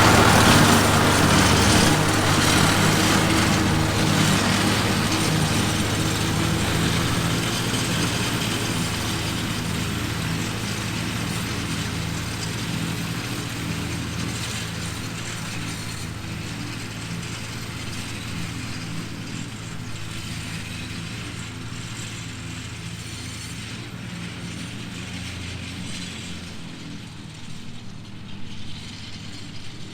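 Old Ford tractor's four-cylinder engine running steadily under load while it drives a PTO finishing mower cutting grass, fading steadily as it moves away.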